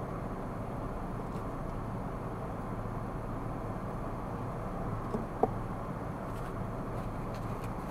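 Steady car driving noise, engine and tyres heard from inside the cabin. A single short sharp click about five seconds in is the loudest moment.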